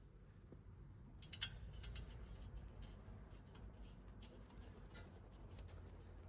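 Near silence with a low background rumble and a few faint clicks, the loudest a short cluster of clicks about a second and a half in.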